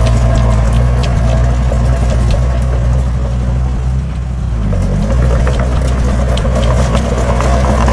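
Heavy diesel engine of earthmoving machinery running steadily, easing off briefly about halfway through and picking up again, with scattered light clinks and knocks.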